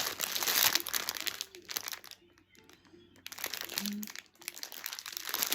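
Plastic packaging of a diamond painting kit crinkling as it is handled and unwrapped, with a brief pause about two seconds in before the crinkling resumes.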